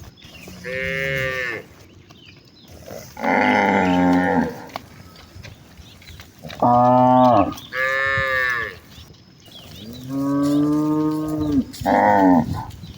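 Several village cows mooing in turn: about six long moos, some deep and some higher-pitched, one after another with short gaps.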